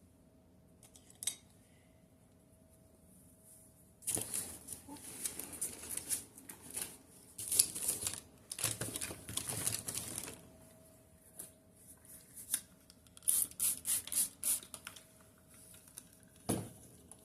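Art supplies being handled on a desk as a watercolour set is fetched: a stretch of clattering and rustling, then a run of sharp clicks and a single thump near the end.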